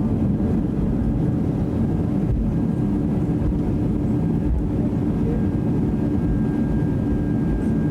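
Steady jet engine and rushing air noise heard inside the cabin of a Boeing 757-200 as it departs, a low even rumble with a steady hum. A faint high whine becomes clearer about halfway through.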